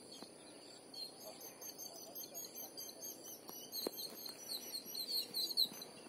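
Faint bird chirping: many quick, short high chirps that grow busier and louder in the second half, with one sharp click about four seconds in.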